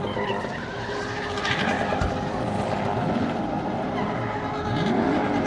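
A car's engine revving hard with its pitch rising and falling repeatedly, over tyres skidding and squealing as the car spins or drifts.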